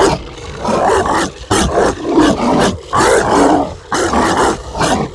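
Zombie dog sound effect: rough, snarling barks and growls, one after another with short gaps.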